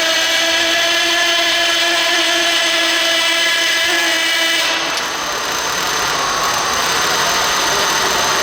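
Motor of an RC pulling vehicle running with a steady high-pitched whine. About five seconds in, the whine stops and gives way to a rougher, noisier mechanical sound.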